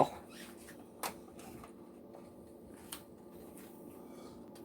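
A few light clicks and taps of kitchen items being handled, the clearest about a second in, over a faint steady hum.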